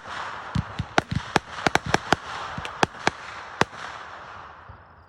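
Consumer fireworks going off: an irregular run of sharp bangs over a hissing crackle that slowly dies away near the end.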